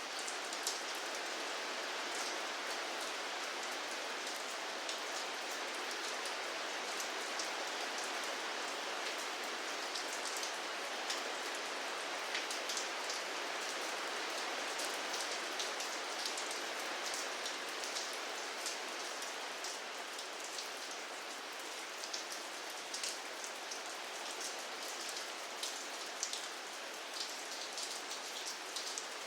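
Steady rain falling, a continuous even hiss with many close, sharp drips and drop ticks scattered through it.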